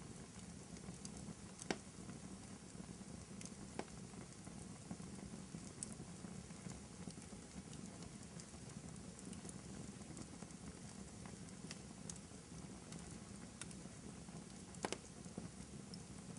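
Wood fire crackling in a fireplace: a low steady rush of flame with scattered small ticks and a few sharper pops, the loudest about 2 s in, about 4 s in and near the end.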